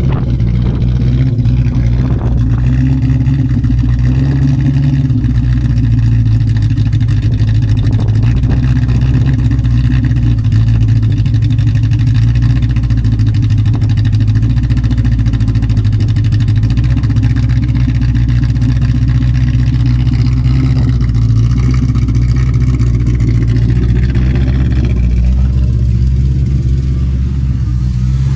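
Toyota 3UZ-FE 4.3-litre V8, with no mufflers on its exhaust, idling steadily and loudly. The mass airflow meter is fitted the wrong way round, which gave the engine a rough idle.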